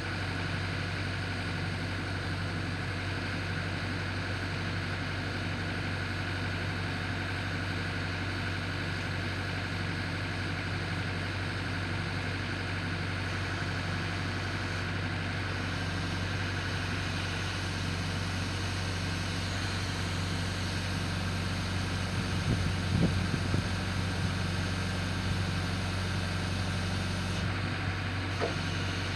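An engine running steadily at an even speed, with a short cluster of knocks or clanks about three quarters of the way through.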